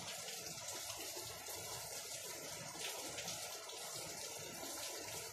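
Steady rain, an even hiss with no distinct events.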